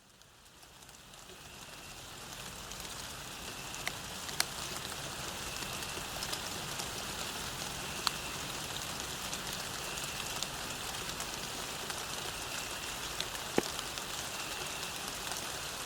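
Steady rain falling on a path, fading in over the first few seconds, with a few louder drops ticking now and then.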